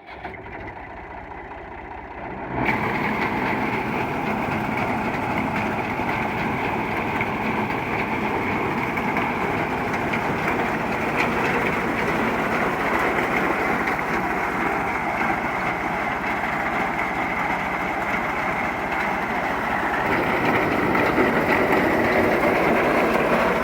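Massey Ferguson 260 Turbo tractor's diesel engine running steadily. It jumps louder about two and a half seconds in and rises a little again near the end.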